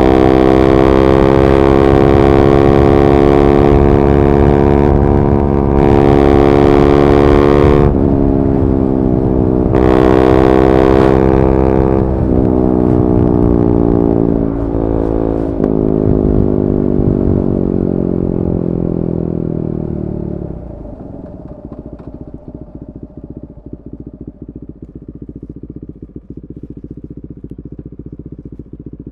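Single-cylinder engine of a KTM 390 Duke running through an Akrapovic slip-on with a decat pipe. It holds high revs with two brief dips in the note about eight and ten seconds in. It then falls steadily in pitch as it slows, and about twenty seconds in it drops to a much quieter, low, uneven idle.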